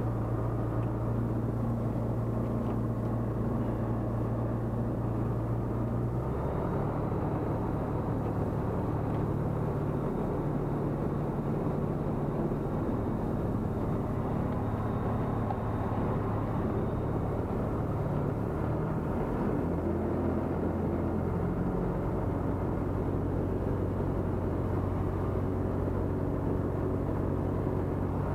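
Tecnam P96 Golf light aircraft's Rotax 912 engine and propeller droning steadily, the engine note shifting to a new pitch about 6 seconds in and again around 20 seconds in.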